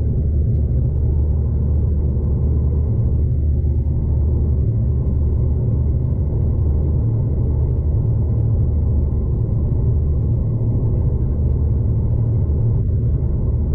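V/Line passenger train running along the line, heard from inside the carriage as a steady low rumble of train and track noise at an even level.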